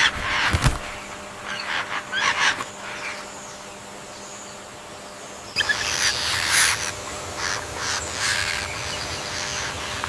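African grey parrots giving harsh, raspy calls in short bursts, with a lull in the middle and a denser run of calls in the second half.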